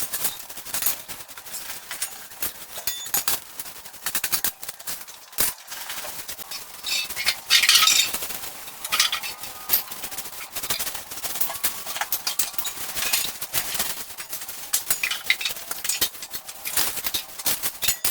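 Irregular clinking and scraping of small hard objects, a dense run of sharp clicks with no steady rhythm, loudest just before the middle.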